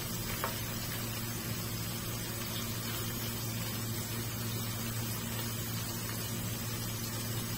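Chicken patties frying in oil in a nonstick pan: a steady fine sizzle over a steady low hum.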